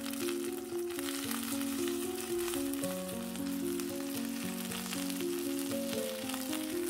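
Zucchini, carrot and rice fritters sizzling in sunflower oil in a frying pan, a steady fine crackle, under background music with a melody of held notes.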